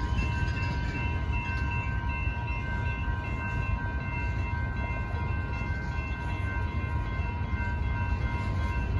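Freight cars of a manifest train rolling steadily over a grade crossing, a dense low rumble, with the crossing's warning bells ringing over it as steady high tones.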